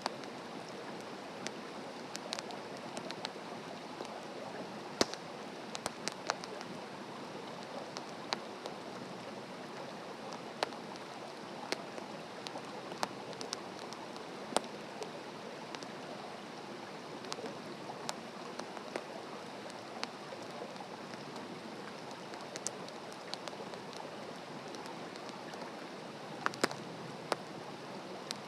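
Wood campfire burning on the ground, a steady hiss of flames with irregular sharp crackles and pops from the burning wood.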